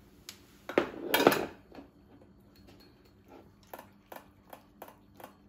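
A small spoon clinking and scraping against dishes while wet pet food is portioned out: a loud clatter about a second in, then a string of light taps.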